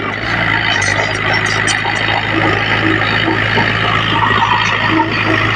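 Heavy diesel earthmoving machinery running steadily at working speed, a constant low engine drone under a loud mechanical clatter.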